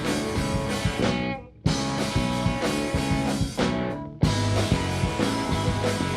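Live rock band playing an instrumental passage on electric guitar, bass and drums, with no singing. The band stops short twice, about a second and a half in and again around four seconds, and comes back in hard each time.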